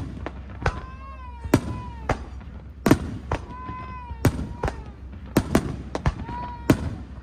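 Fireworks exploding overhead in quick succession: sharp bangs and crackles one or two a second, with short rising-and-falling tones in between.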